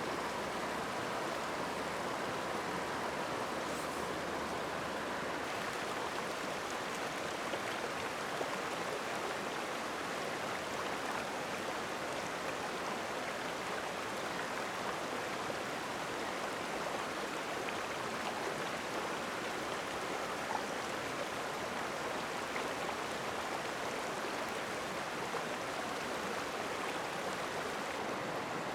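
Steady rush of flowing water, like a stream running over stones, with no change in level and only a few faint ticks on top.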